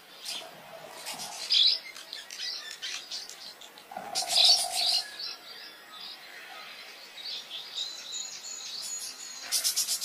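Birds chirping and calling in bursts of rapid, high chirps, loudest about a second and a half in and again four to five seconds in.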